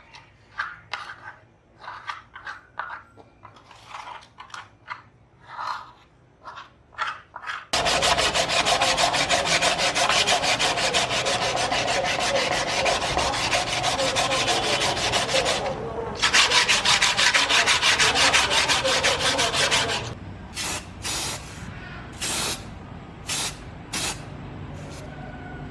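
Sanding noise: short scraping strokes, then a loud continuous rough rubbing for about twelve seconds with a brief pause partway, followed by several short, sharp bursts near the end.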